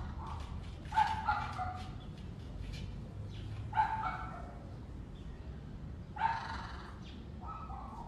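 A macaw parrot calling in short bursts, about five times; the loudest comes about a second in.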